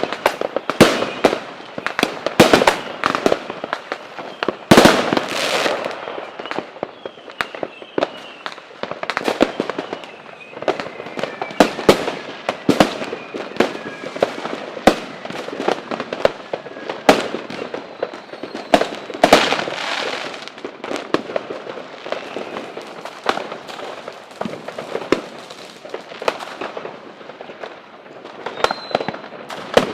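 Fireworks display: rapid, irregular bangs of exploding shells with crackling between them, and a faint falling whistle partway through.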